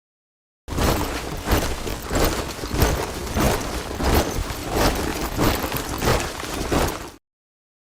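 A squad of soldiers' boots marching in step, a heavy stamp a little under twice a second. It begins after a moment of silence and cuts off suddenly near the end.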